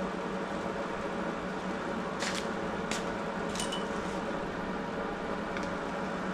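Steady mechanical noise, like a running fan or machine, with a few sharp clicks about two to four seconds in, one followed by a brief ringing tone.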